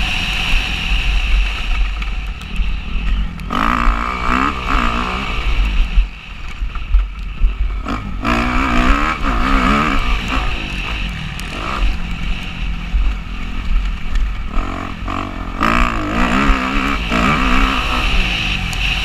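Motocross dirt bike engine revving hard and easing off in repeated surges, pitch climbing and dropping through the gears, over a constant deep rumble on the microphone.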